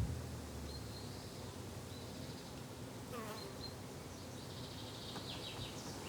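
Summer garden ambience: a flying insect buzzing steadily, with scattered short high bird chirps.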